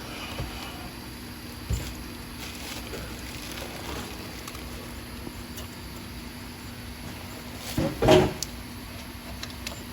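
Hand tools and engine parts being handled: a sharp knock about two seconds in and a louder clatter around eight seconds, over a steady low hum.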